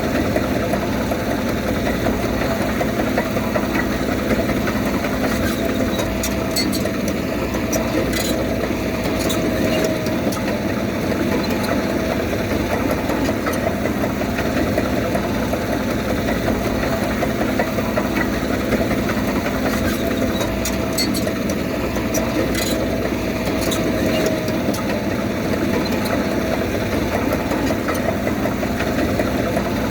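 Diesel engine of a Komatsu D31P bulldozer running steadily, its pitch rising slightly twice. Faint light clicks can be heard a few times.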